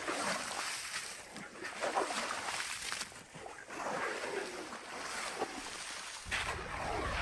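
Shovels scraping and crunching into crystalline salt in irregular strokes, with wind rumbling on the microphone from about six seconds in.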